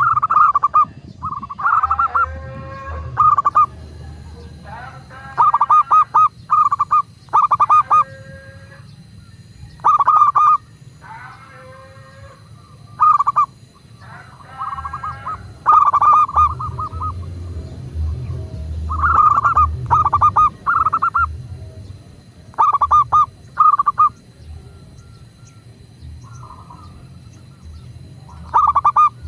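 Zebra dove (perkutut) cooing: short, clipped coos in quick runs of two to four notes, repeated every few seconds, with a low rumble underneath.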